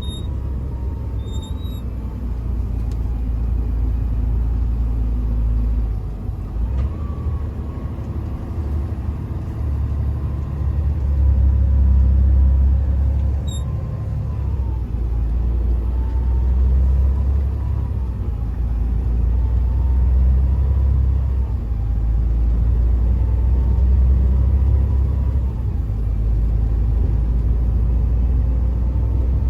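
A heavy truck driving, its diesel engine and the road noise making a steady low rumble that swells and eases every few seconds, with a faint whine that wavers in pitch.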